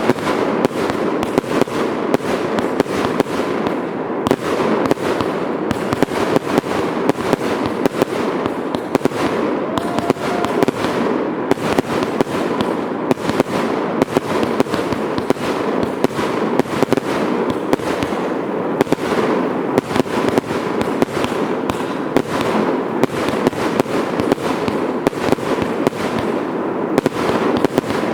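Fireworks going off in a dense, unbroken barrage of sharp bangs and crackles, several a second.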